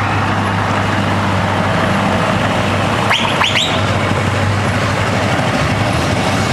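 Big diesel truck engine with an open, unsilenced exhaust running steadily with a deep, even drone. Three short high squeaks come in quick succession a little past the middle.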